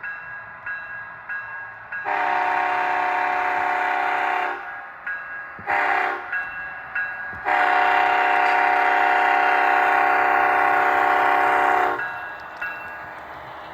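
Sound-equipped HO scale model diesel locomotive blowing its multi-chime horn in the grade-crossing pattern: a long blast, a short one, then a final long one. Quieter track and running noise and small clicks fill the gaps.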